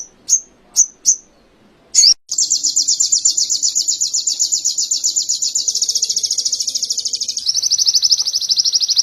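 A sogon (sogok ontong) songbird singing canary-style song: a few short separate chirps, then from about two seconds in a long, rapid, even trill of about ten notes a second, which switches to a faster, denser trill near the end.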